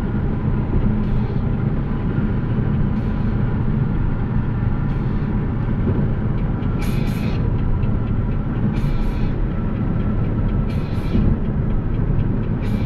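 Porsche Cayenne Turbo's twin-turbo V8 with an aftermarket Tubi exhaust cruising, heard from inside the cabin as a steady low drone mixed with road noise. In the second half, short hissing bursts come about every two seconds.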